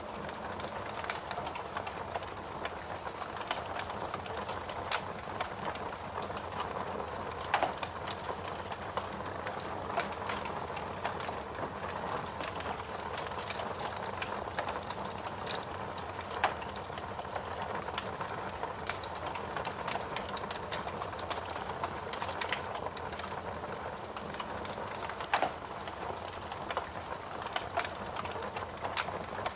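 Log fire burning in a fireplace: a steady hiss with frequent small crackles and a few sharper pops at irregular intervals.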